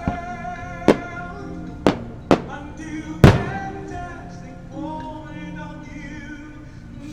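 Firework shells bursting overhead: about five sharp bangs in the first three seconds, the loudest a little over three seconds in, over a slow pop-ballad duet with singing that plays throughout.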